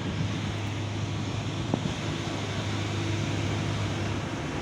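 Boat engine running with a steady low drone over wind and water noise, with a single short click a little under two seconds in.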